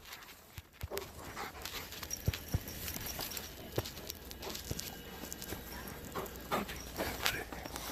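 A dog panting, with irregular crunching clicks of footsteps in snow.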